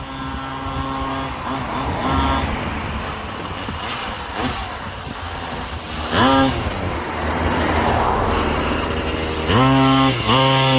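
Small minibike engine running, blipped up in short revs that rise and fall quickly: a light one about two seconds in, a sharper one about six seconds in, and two quick revs in a row near the end.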